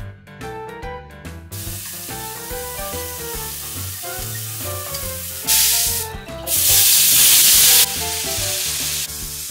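Food sizzling in oil in a frying pan while being stir-fried, over background music. About five and a half seconds in the sizzling gets much louder in two stretches, the second lasting over a second, each cutting off sharply.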